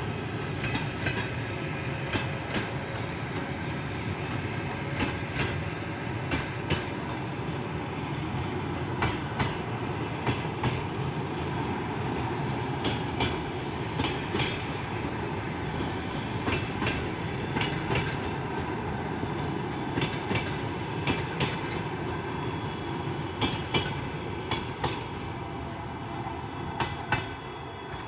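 Train passing along the track: steady rumble of wheels on rail with repeated clicks in small groups as the wheelsets cross rail joints, easing off near the end.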